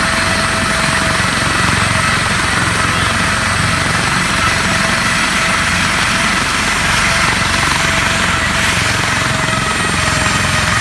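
Airplane engine noise: a loud, steady rush with a few held whining tones and a fast low pulsing underneath.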